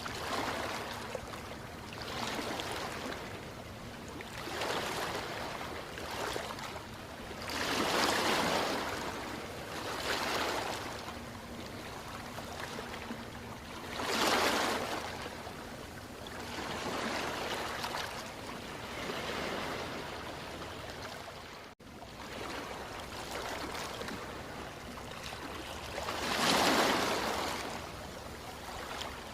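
Ocean waves washing onto a shore, a steady rush that swells into a louder surge every few seconds, the biggest three near 8, 14 and 27 seconds in. There is a very brief dropout a little past the middle.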